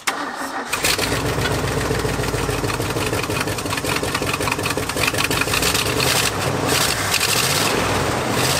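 A 1974 Ford F350's 460 V8 starting up within the first second and then running steadily with a rapid firing pulse. It is running on seven cylinders: cylinder 8 is dead from coolant getting into it, which the owner puts down to a blown head gasket or possibly a cracked head.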